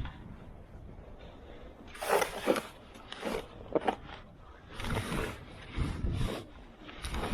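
Irregular crunching and scraping strokes in snow, roughly one a second, starting about two seconds in.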